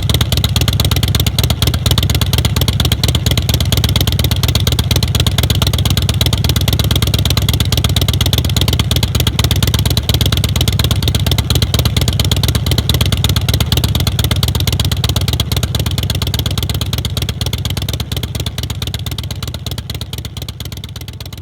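Big Dog Wolf chopper's V-twin engine running steadily with a rapid, even exhaust pulse, fading out over the last few seconds.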